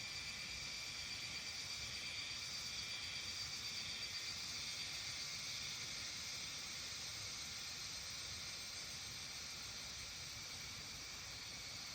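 Evening insect chorus, a dense steady high-pitched trilling with a couple of held tones in it, over a faint low rumble of background noise.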